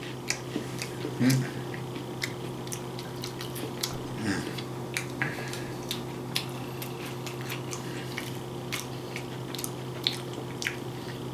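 A person chewing a crunchy tortilla crunch wrap with Cheetos inside, with irregular crisp crunching clicks throughout and a couple of short low murmurs early on, over a steady low hum.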